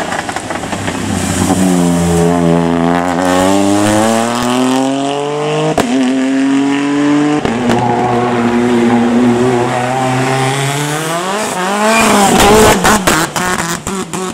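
Race car engine revving hard, rising and falling several times with sharp breaks in the pitch at gear changes. Near the end it peaks and then crackles with a rapid series of sharp exhaust pops as the revs drop.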